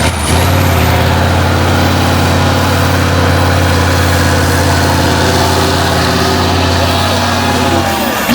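Heavy off-road truck's diesel engine running at a steady speed.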